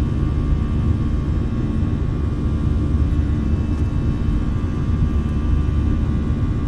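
Steady engine and airflow rumble of a jet airliner, heard inside the passenger cabin, with a faint steady whine on top.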